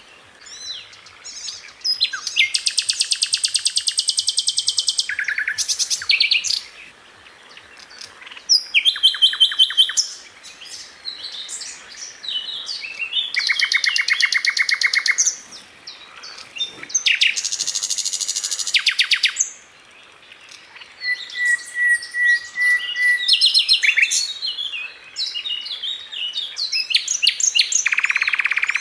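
Sikatan Londo flycatcher singing in bursts of very fast, tightly repeated high notes. Each burst lasts one to three seconds, with short pauses between them.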